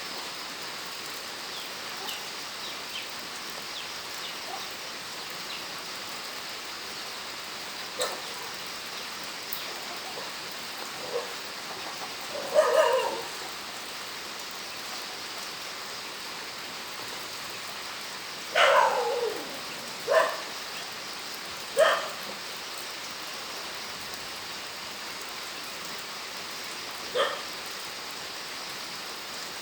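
Steady rain falling, with a handful of short animal calls, about five, rising out of it at uneven gaps; the longest, near the middle, falls in pitch.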